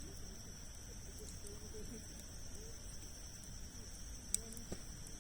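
Wood campfire burning with a few sharp crackles and pops, the loudest about four seconds in, over a steady high insect trill.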